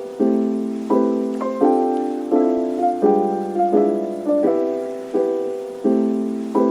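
Background piano music: soft chords struck in an even pulse about every 0.7 seconds, each one fading before the next.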